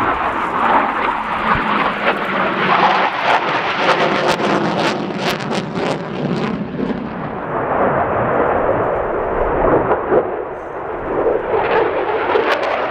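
Twin Eurojet EJ200 jet engines of an RAF Typhoon FGR4 in a display pass: a loud, continuous rushing jet noise with crackling through the middle and again near the end.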